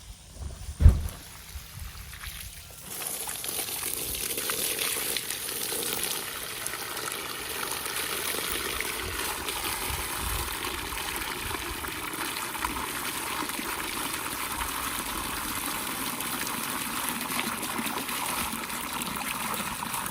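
Water running steadily, starting about three seconds in, after a single dull thump about a second in.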